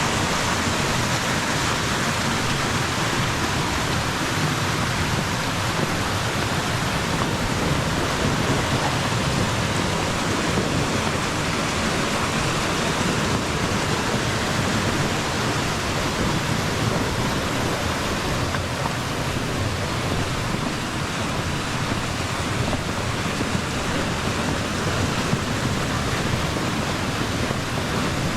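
Snowstorm ambience: a steady, even hiss with no separate sounds standing out.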